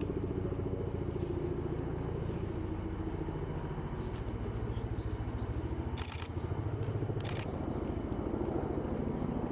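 A steady low mechanical drone with a rapid flutter, like an engine running, with two short sharp clicks about six and seven seconds in.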